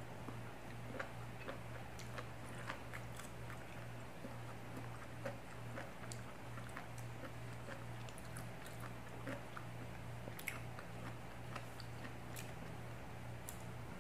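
Close-up biting and chewing of a spicy king oyster mushroom: many short, soft wet clicks and crunches scattered throughout, over a steady low hum.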